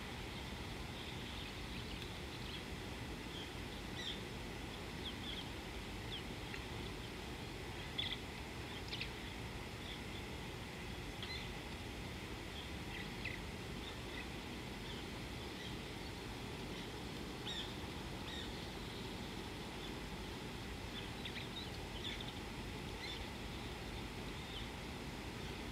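Scattered short bird chirps, many of them through the whole stretch and a few slightly louder around the middle, over a steady low background hiss.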